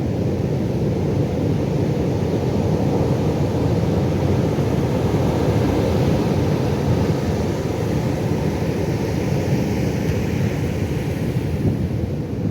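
Pacific Ocean surf: a steady low roar of breaking waves, with a hissing wash that swells in about halfway through.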